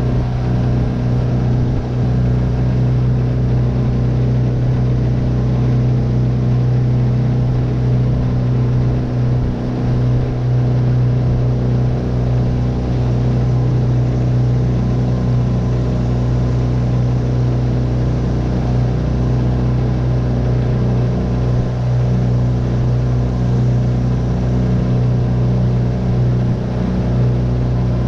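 Tohatsu 9.8 hp four-stroke outboard motor running steadily under way, a constant low hum.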